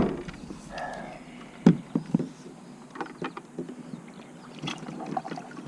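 Irregular knocks, thumps and small clatters against a kayak hull as gear is handled aboard, the loudest a quick cluster of thumps about two seconds in.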